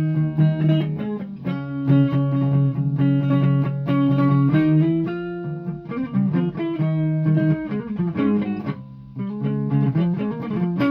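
Guitar being played: a picked melody of single notes and held notes that ring for up to a second each, with a short pause about nine seconds in.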